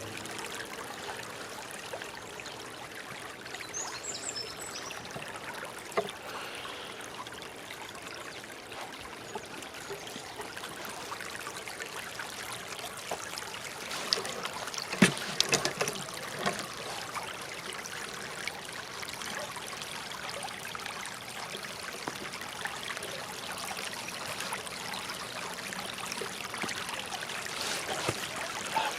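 Water flowing steadily, like a small stream, with a brief high chirp about four seconds in and a few sharp knocks about halfway through.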